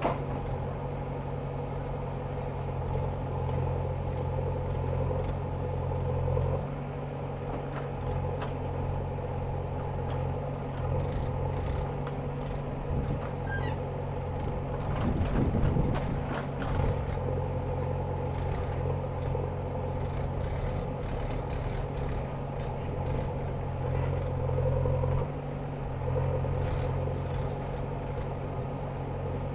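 Diesel engine of a JCB 3DX backhoe loader running steadily while it works, its note shifting about six seconds in and again near the end as the load changes. A louder noisy stretch comes about halfway through, with scattered light clicks throughout.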